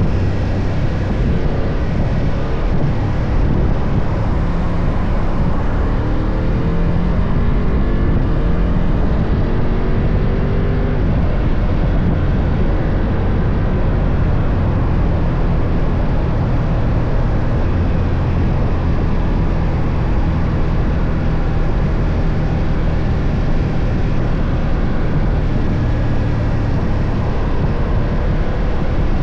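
BMW F 800 GS motorcycle engine running under way, its pitch rising and falling over the first ten seconds or so, then holding steadier.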